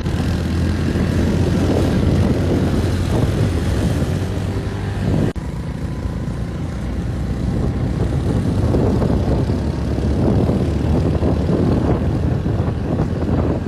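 Motorbike engine running steadily while riding, a loud rumbling drone, with a sudden break about five seconds in where the sound cuts and resumes.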